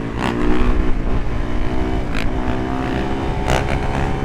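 Yamaha YZ dirt bike engine running hard under throttle, its pitch rising and falling as the rider works it, with two short sharp clicks about two and three and a half seconds in.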